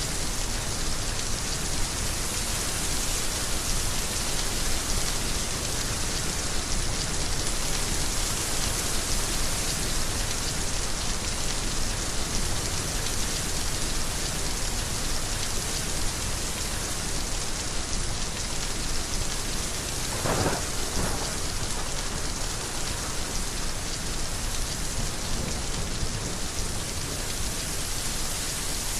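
Heavy rain falling steadily, a dense hiss over a steady low rumble, with one brief sharper splash-like sound about two-thirds of the way through.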